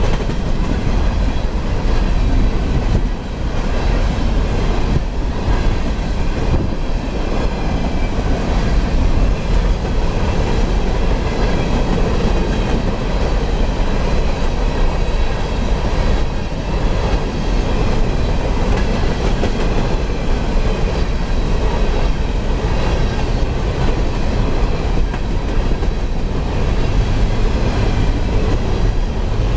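Loaded coal hopper cars of a CSX freight train rolling past: a steady, loud rumble of steel wheels on rail with the clickety-clack of wheels over the rail joints.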